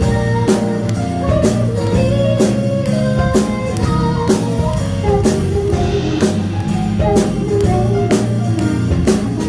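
Live band music: a drum kit keeping a steady beat of about two hits a second under guitar and bass.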